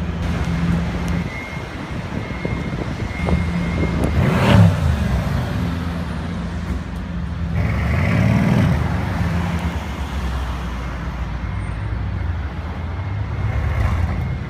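Mercedes-AMG C63 S twin-turbo V8 running with a steady low engine note, blipped in two short revs that rise and fall about four and a half and eight and a half seconds in, amid street traffic.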